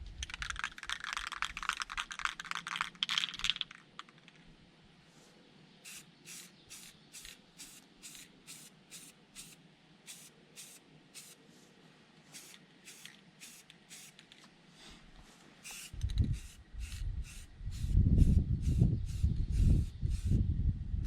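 Aerosol can of black spray paint spraying: one long hiss for the first few seconds, then a run of short puffs about one or two a second. Wind buffets the microphone with low rumbling gusts in the last few seconds.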